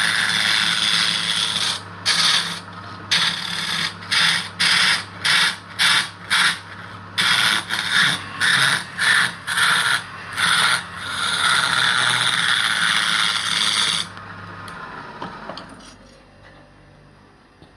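Wood lathe running with a turning tool cutting the spinning wood: steady cutting, then a string of short passes about two a second, then steady cutting again. About fourteen seconds in the cutting stops and the lathe motor hum fades as it winds down.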